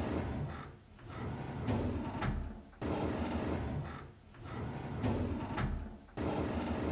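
A drawer sliding open over and over, each pull a rumbling scrape with a sharp knock, repeated every second and a half to two seconds.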